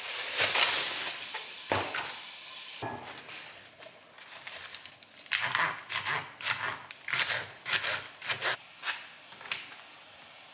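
A plastic bag of lettuce rustling as it is opened, then a knife chopping lettuce leaves on a cutting board: about a dozen quick cuts over some four seconds.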